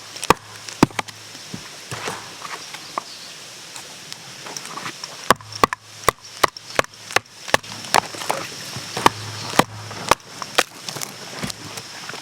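A series of sharp, irregular knocks, coming thickest in the middle stretch, like chopping or tapping at a camp.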